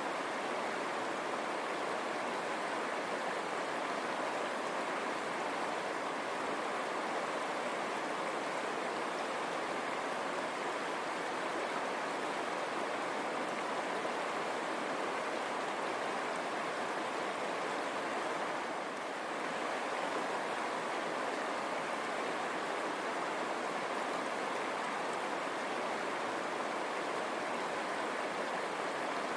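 River water running, a steady rushing with no break.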